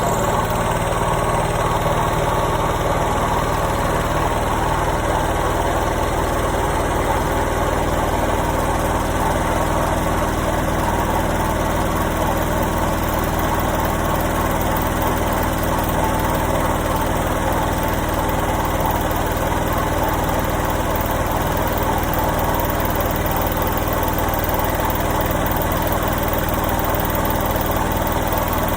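Washing machine running steadily: a constant motor hum under a dense whirring noise, with no pause or change in speed.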